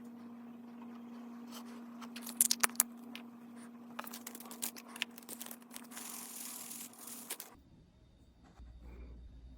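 Slime being handled and squeezed close to the microphone, giving crackling clicks and pops, with a quick run of sharp snaps a couple of seconds in and a rustling hiss later. The sound stops abruptly about seven and a half seconds in, leaving only faint quiet sound.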